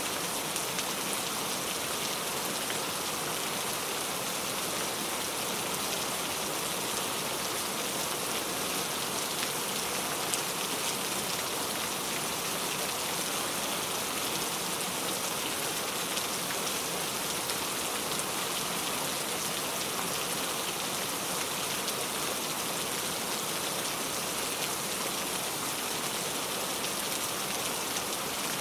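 Heavy rain falling steadily on a surface, a dense even hiss of drops with faint scattered patters, unchanging in loudness.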